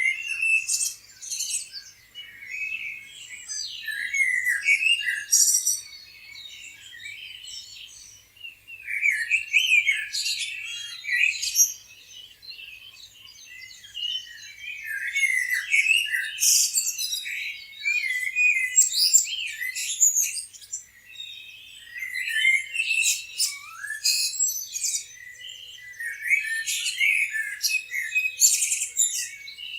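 Several small songbirds chirping and trilling over one another in busy bouts, with brief lulls every few seconds.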